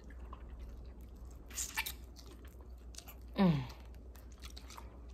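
Chewing and biting into chicken wings, with a few sharp crunches about a second and a half in. A short voice sound falling in pitch comes about three and a half seconds in.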